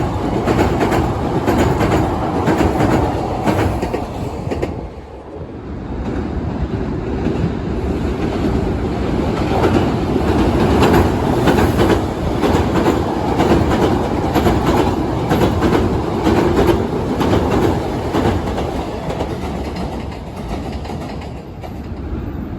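Hankyu electric trains crossing a railway bridge: a continuous rumble with the clickety-clack of wheels over rail joints. It dips briefly about five seconds in, then picks up again.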